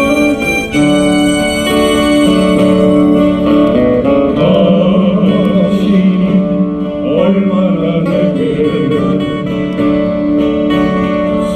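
A Korean trot ballad playing over a backing track of held chords and guitar. From about four seconds in, a singer's voice with vibrato comes in over it.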